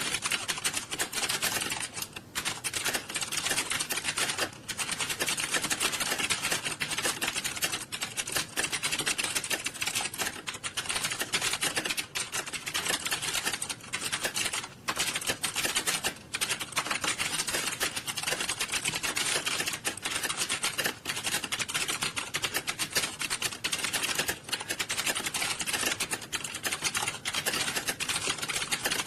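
Many computer keyboards being typed on fast at once during a typing test, a dense, continuous clatter of keystrokes with a few brief lulls.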